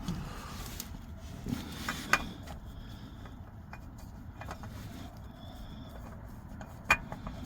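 Sparse light clicks and taps of hands fitting a new oil filter onto the engine, with a sharp click near the end, over a low steady background hum.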